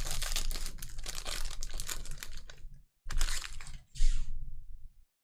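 Trading cards being flipped through and handled, a quick run of dry clicks and rustles that stops, then two short bursts of rustling about 3 and 4 seconds in.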